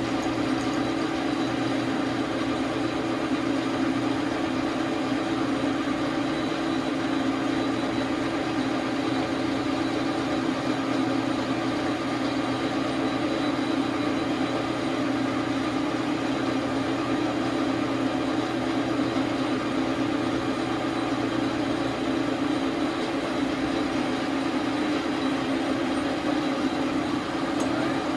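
Dar Sin 12 x 37 manual lathe running steadily, a constant machine hum with several steady tones, during a facing cut on the workpiece.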